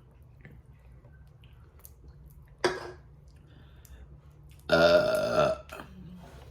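A person burping: a loud, pitched belch of nearly a second whose pitch slides down, about three-quarters of the way in, after a brief sharp sound near the middle.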